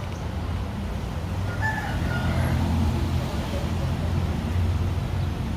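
Steady low rumble, like road traffic or an engine running, with a few faint brief tones about two seconds in.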